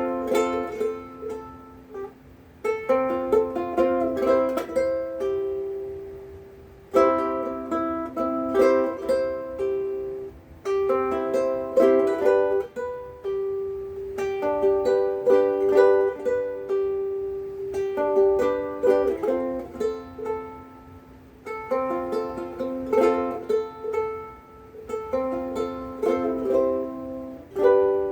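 Big Island Poni-C ukulele with Worth Brown strings, fingerpicked in a loose improvised noodle: single plucked notes and chords ringing in short phrases, broken by brief pauses every few seconds.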